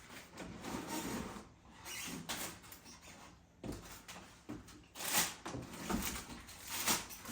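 Irregular scraping and rustling, with a few knocks, as objects are handled and tied down; the loudest scrape comes about 5 seconds in.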